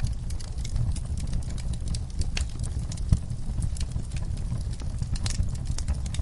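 Wood fire crackling in a fireplace: irregular sharp pops and snaps over a low, steady rumble of the flames, with one louder pop about three seconds in.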